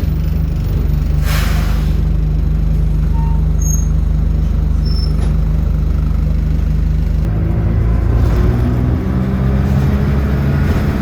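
Bus engine running with a steady low hum. A short hiss of air, like an air brake, comes about a second in, and from about seven seconds in the engine note changes and rises as the bus pulls away.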